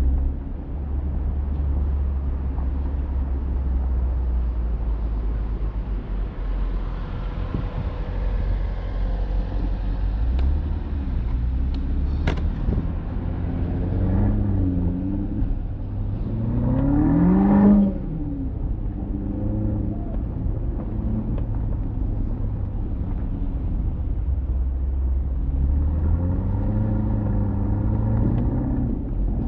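Alpina XB7's twin-turbo V8 running under a steady low rumble of road noise while driving, the engine note rising as the car accelerates a little past halfway, loudest just before it eases off, and rising again near the end.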